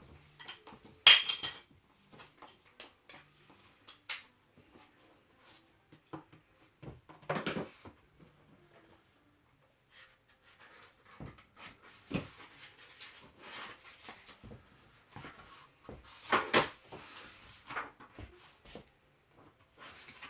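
Scattered knocks, clacks and rustles of objects being handled, with one sharp loud clack about a second in and two longer rustling scrapes, one near the middle and one towards the end.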